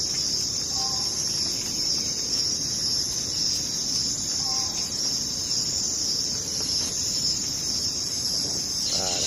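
Steady, dense high-pitched insect chorus, crickets, trilling without a break. Two short faint calls rise through it, about a second in and again around four and a half seconds.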